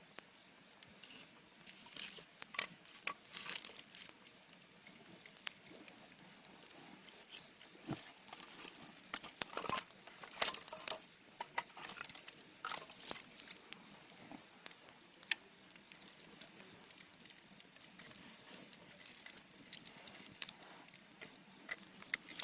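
Scattered small clicks, taps and crinkling rustles at an uneven pace, busiest in the middle stretch, over faint background hiss.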